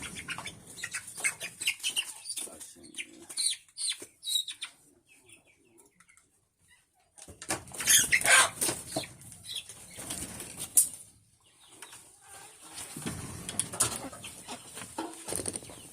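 Chickens flapping their wings in repeated short flurries, with a brief lull in the middle and the loudest flapping about eight seconds in.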